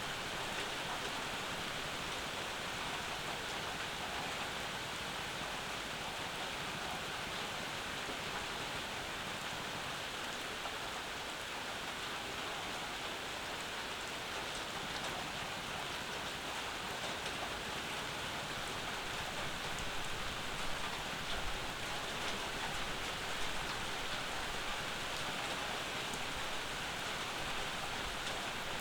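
Steady summer rain falling, an even hiss of drops on the surfaces around, with a few louder drops or drips standing out about twenty seconds in.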